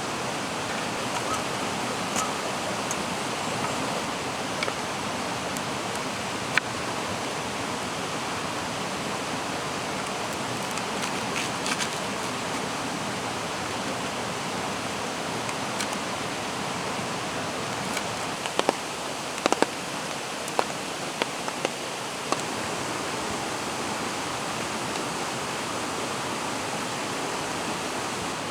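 Steady rush of a mountain stream, with scattered sharp ticks and pops, most of them bunched together about two-thirds of the way through.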